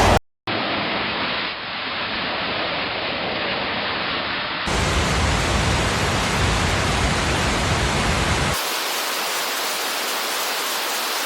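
Steady rushing water noise in three clips joined by abrupt cuts, the sound changing character at each cut.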